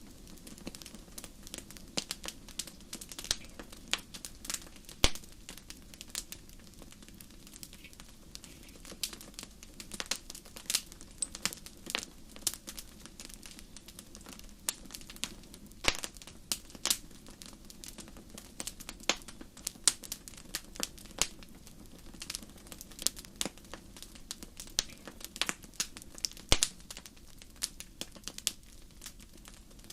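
Wood fire crackling in a fireplace: irregular sharp pops and snaps, a few much louder than the rest, over a steady low rush of the flames.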